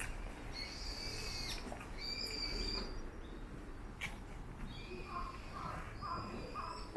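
Birds calling: two drawn-out high calls in the first three seconds, then more high calls near the end along with a run of four short lower notes, about two a second. A single sharp click sounds about four seconds in.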